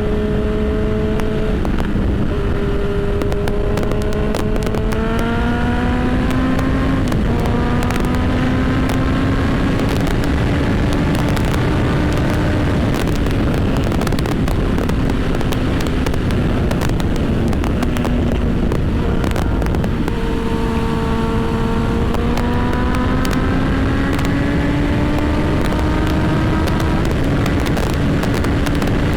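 Honda CB1000 motorcycle engine running under way, its pitch climbing as it accelerates about five seconds in and again past the twenty-second mark, with drops in between, over steady wind rush.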